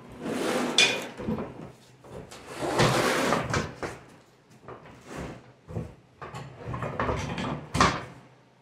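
Steel snow-plow frame scraping and clanking as it is slid in underneath an ATV's frame, in several shoves, with a sharp metal clank near the end.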